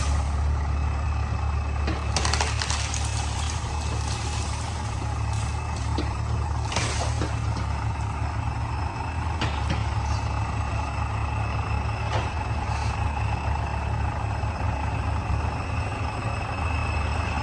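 Heavy diesel engine running steadily under load, with a faint steady whine above it. A few brief sharp hissing or knocking noises cut through, about four times.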